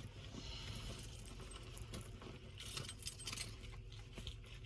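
Car keys jingling on their ring as the key is handled at the ignition, with light metallic clicks and ticks that grow busier about halfway in.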